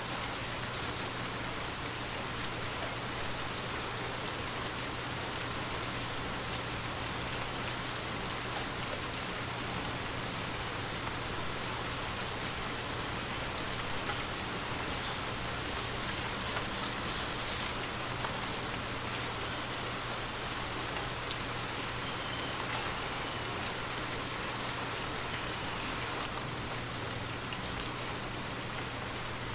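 Steady rain falling, with scattered single drops ticking against a surface.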